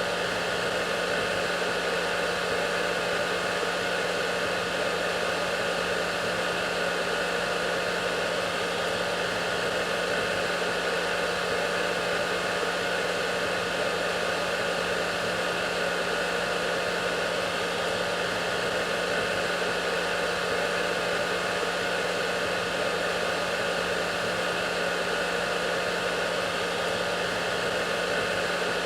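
Hair dryer running steadily: a constant rush of air with a low motor hum and a faint steady whine, unchanging throughout.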